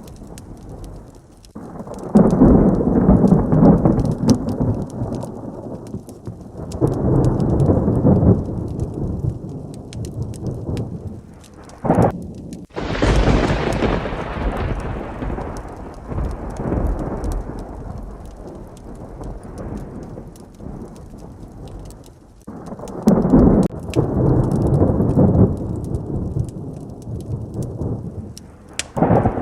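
Heavy rain with repeated peals of thunder: several low rolling rumbles, and a sharp close crack about thirteen seconds in that rumbles away over several seconds.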